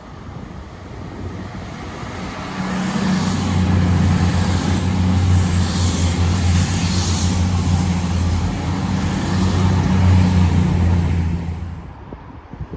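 Class 222 Meridian diesel multiple unit passing: a steady low diesel engine drone with wheel and rail noise that builds over the first few seconds, stays loud for about eight seconds, then fades away near the end.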